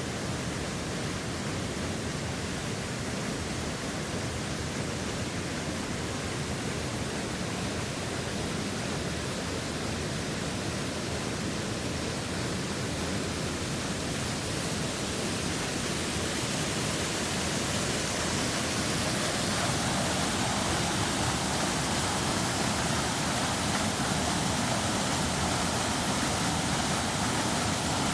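Steady rush of a waterfall, an even unbroken noise that grows slightly louder and brighter about two-thirds of the way in.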